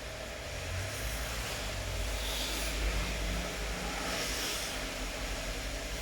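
Steady rain hiss over a low rumble, with a few brief swells of louder, brighter hiss.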